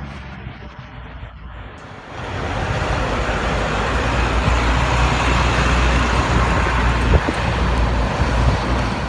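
Heavy snow-clearing vehicle running: a low engine hum, then from about two seconds in a loud, steady rushing noise over the engine.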